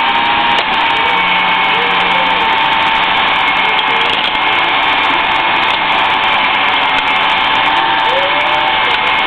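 Electric drill spinning a cylinder hone in a Chevy 350 cylinder bore, running at a steady high whine with the hone stones scraping the rusty cylinder wall.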